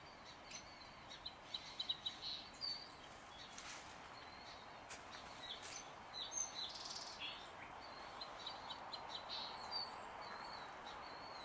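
Faint, scattered chirps and short call notes of small birds over a steady outdoor background noise.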